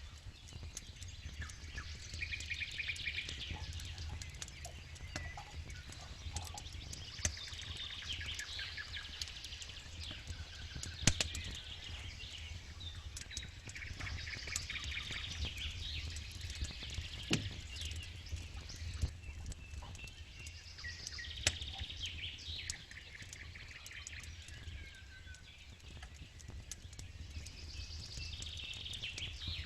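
Campfire crackling and popping, with one sharp pop louder than the rest about eleven seconds in, over a steady low rumble. Small birds sing in short repeated phrases every few seconds.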